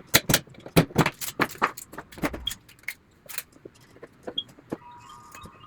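Sharp, irregular cracks and clicks of 3D-printed plastic, several a second: support material being snapped and picked off printed parts. The cracks thin out in the second half.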